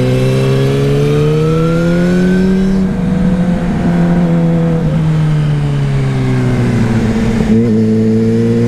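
Suzuki GSR 600's inline-four engine pulling steadily through a run of bends: the engine note climbs for the first couple of seconds, then eases off and holds, with a change in note about seven and a half seconds in. Wind rushes over the microphone underneath.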